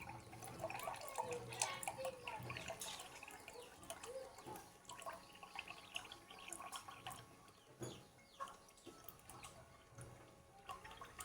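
Water from a cup-activated water dispenser dripping into a cup, a faint, irregular patter of drops.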